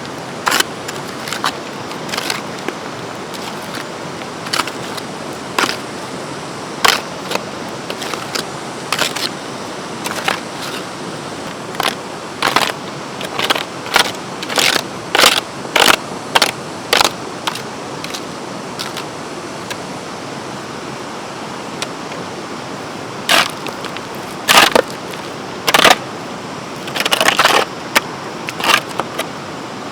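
Irregular sharp knocks and clatter, in loose clusters, over a steady background hiss.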